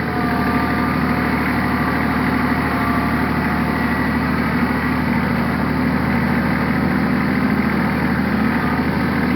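Big tractor's engine running steadily at low, even revs, heard from the seat.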